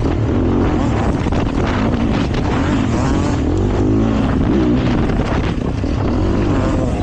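Dirt bike engine running at riding speed on a trail, its pitch rising and falling as the throttle opens and closes, with wind buffeting the microphone.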